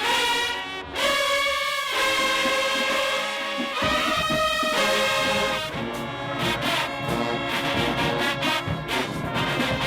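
High school marching band's brass section playing held chords, with a short break about a second in; low drums come in just before four seconds and steady percussion hits join from about six seconds.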